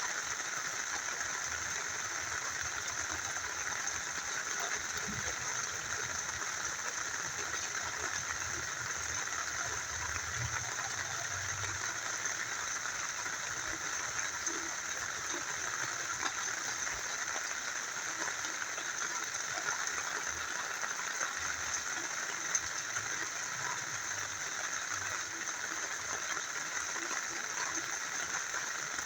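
A small river flowing, a steady rushing of water mixed with falling rain, with no breaks or changes.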